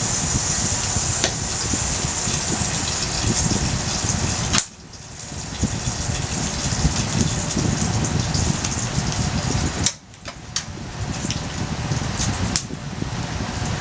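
Wood fire burning in a portable fire pit: a steady rushing noise with scattered small crackles. Twice the sound drops away suddenly just after a sharp click, then builds back up.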